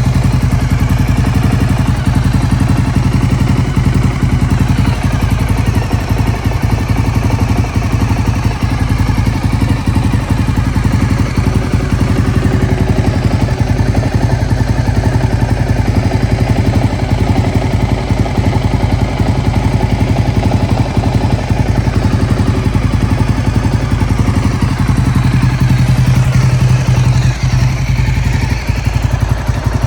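Honda GB250 Clubman's air-cooled single-cylinder engine running steadily at idle, with an even, unbroken beat of firing pulses.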